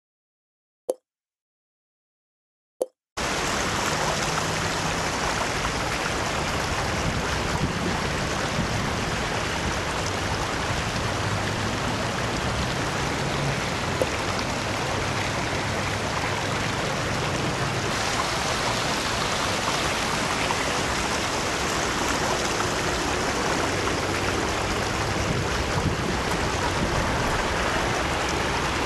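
Two short beeps over silence, then about three seconds in a steady rushing noise starts suddenly and runs on, with a low wavering hum underneath: road and engine noise of a moving truck.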